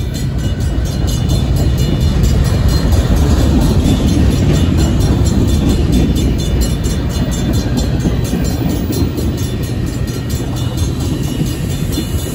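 Freight cars rolling through a grade crossing, their wheels giving a steady heavy rumble and rattle on the rails that is loudest a few seconds in. Over it the crossing's Safetran hybrid electronic bell rings several rapid, even dings a second.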